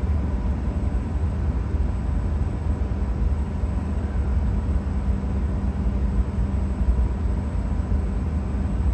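Tohoku Shinkansen train's running noise heard from inside the car: a steady low rumble as it pulls into the station.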